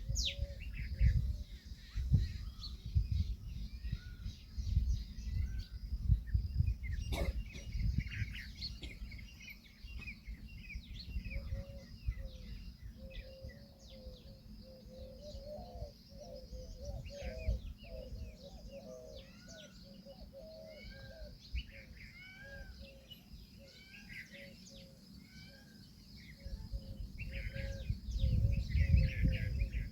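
Several birds chirping and calling, with a run of repeated lower notes starting about a third of the way in. A low rumble comes and goes in gusts, strongest at the start and again near the end.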